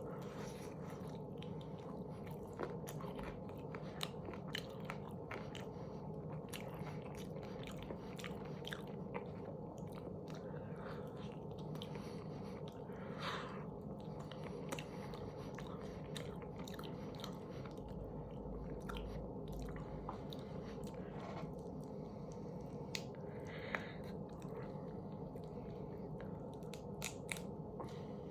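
Close-up chewing and biting of bone-in chicken wings, with scattered small crunches and clicks over a steady low hum.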